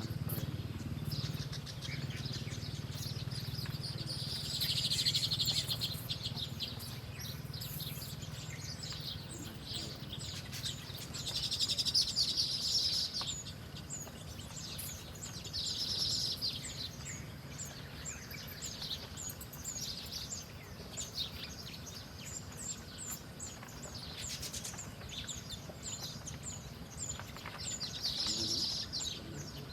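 Small birds calling: a steady run of short, high chirps, broken by louder bursts of rapid chattering song about five seconds in, around twelve and sixteen seconds, and near the end.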